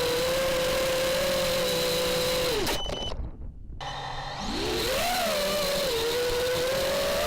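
FPV racing quadcopter's brushless motors and propellers whining at a steady pitch. About three seconds in the whine drops away almost to nothing for about a second, then spools back up with the pitch rising and wavering.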